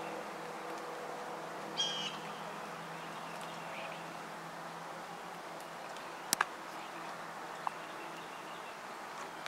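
Quiet open-field ambience. A bird gives one short call about two seconds in, and two sharp clicks come in quick succession a little past the middle.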